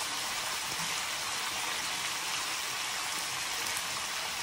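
Cubed potatoes frying in oil in a pan with a tempering of dals, cumin and mustard seeds, giving a steady, even sizzle.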